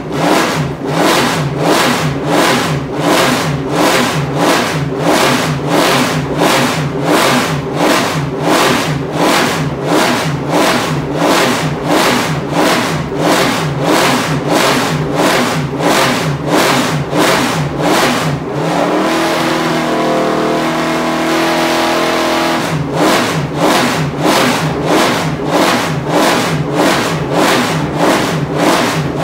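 Nissan GT-R GT1 race car's 5.6-litre V8 idling while warming up after a cold start, with a lumpy, rhythmic beat that rises and falls about twice a second. About 19 seconds in, the beat smooths into a steadier run that rises in pitch and then drops back, for about four seconds, before the lumpy idle resumes.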